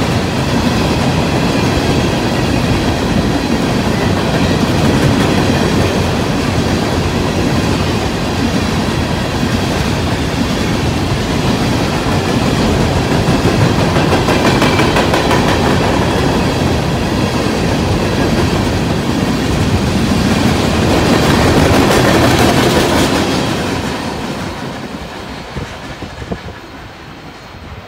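Coal train's freight cars rolling past at speed: a steady rumble and clatter of steel wheels on the rails. About 24 seconds in, the last car passes and the sound fades away as the train recedes.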